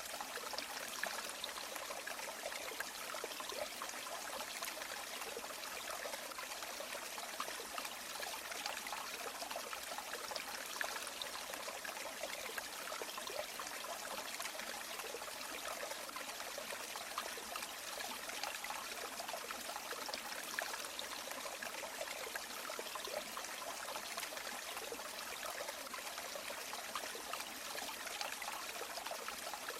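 River water flowing steadily, an even sound of running water, mostly light and splashy with little deep rumble.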